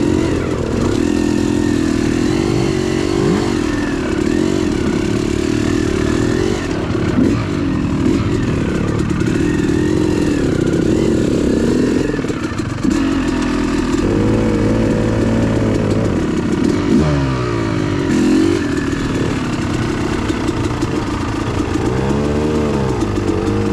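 Dirt bike engine under way, its pitch rising and falling over and over as the throttle is worked and gears change, with steeper revs near the end.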